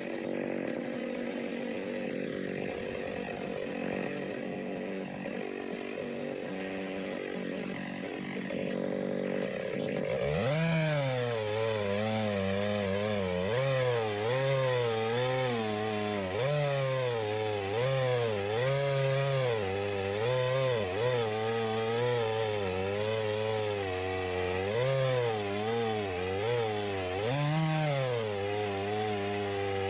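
McCulloch 610 two-stroke chainsaw ripping a log lengthwise in an Alaskan chainsaw mill. It runs steady and high at first. About a third of the way in the engine note drops and keeps labouring up and down as the bar works through a log nearly too wide for its 20-inch bar.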